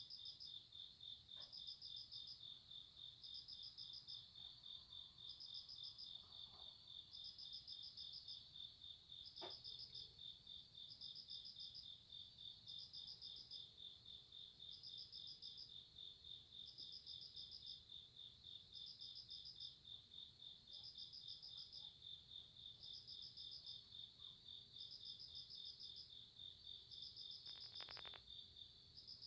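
Faint chorus of night crickets: one fast, unbroken trill, with a second insect chirping in short bursts about every second and a half.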